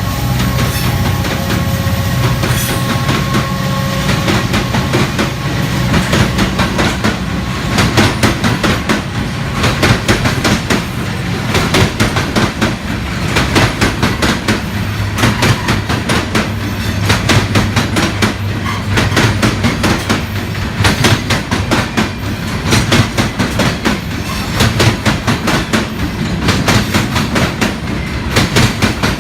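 Union Pacific gravel train rolling past. A low engine drone fades over the first few seconds, then the freight cars' wheels click steadily over the rail joints.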